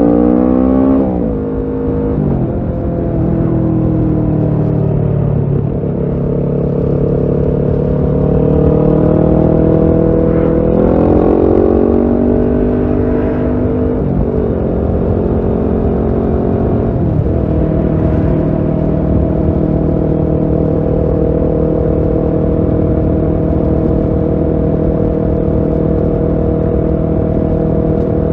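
Kawasaki Ninja 650 parallel-twin engine through a Shark SRC-4 full exhaust system, heard on board while riding. The engine note drops about a second in, climbs under acceleration, dips and climbs again around the middle, then holds a steady pitch while cruising for roughly the last ten seconds, over a steady low rush.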